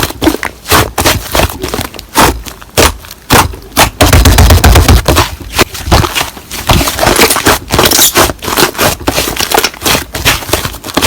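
Slime being squeezed and pressed by hand, giving loud, irregular popping and crackling clicks as air pockets burst.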